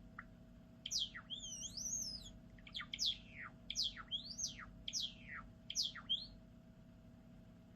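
White Java sparrow singing: a quick run of sweeping, gliding chirps that starts about a second in and stops about six seconds in.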